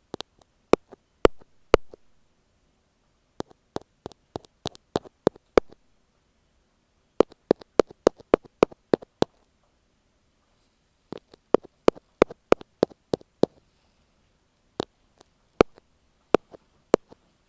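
Ear pick tapping directly on an earphone microphone: sharp, dry taps in short runs of several, with quiet gaps between the runs.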